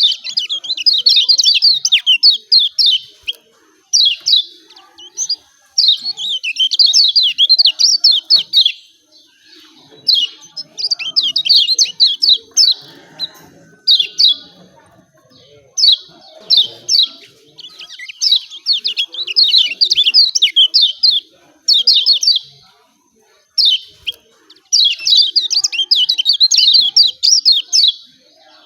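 Kecial kuning white-eye giving its rapid 'ciak ciak' chatter: fast runs of sharp, high chirps in phrases of one to three seconds, separated by brief pauses.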